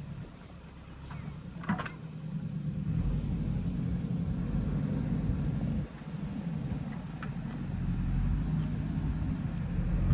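Diesel engine of a JCB 3DX backhoe loader running under working load. It picks up about three seconds in, drops briefly near six seconds and builds again. A single metallic knock comes near two seconds.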